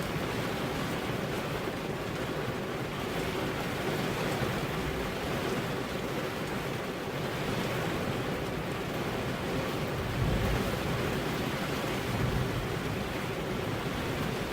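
Steady rain drumming on a car's windows, an even hiss, with two brief low rumbles in the second half.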